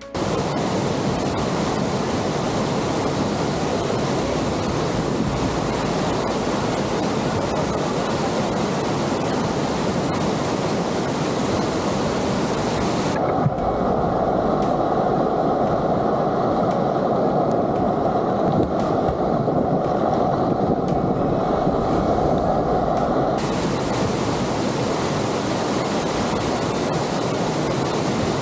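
Rushing water of a waterfall, a steady unbroken roar. For about ten seconds in the middle it sounds duller, with the hiss gone and a band of lower rush left.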